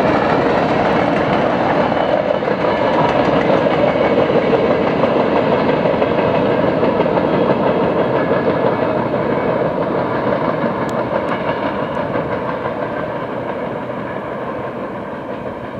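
Covered grain hopper cars of a long freight train rolling past, a steady rumble of steel wheels on the rails that fades away over the last few seconds as the end of the train goes by.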